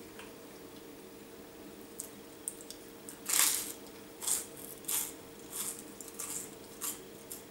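A person chewing a mouthful of dry, unbuttered toast: a run of crunches starting about two seconds in, roughly one every two-thirds of a second, the first the loudest.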